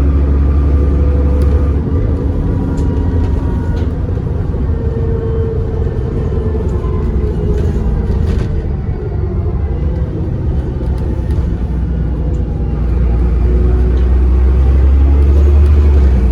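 Bus's diesel engine and drivetrain heard from on board while under way, with body rattles and a faint turbocharger whistle. The deep engine rumble is heavy at first, eases off, then builds again from about three-quarters of the way through as the bus pulls harder.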